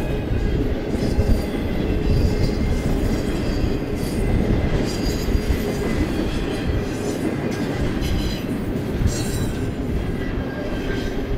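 Double-stack intermodal freight train rolling past: a steady, loud rumble and clatter of the well cars' wheels on the rails, with a thin high wheel squeal now and then.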